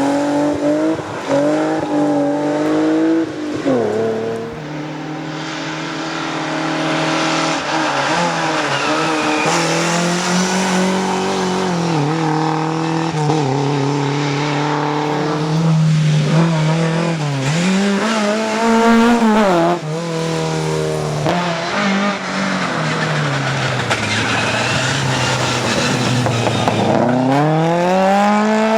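Rally car engine at full race pace, its note climbing hard and dropping again and again as it accelerates, lifts and brakes through the stage.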